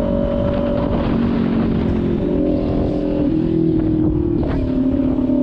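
Motorcycle engine running steadily, its pitch stepping up and down a few times as the throttle changes.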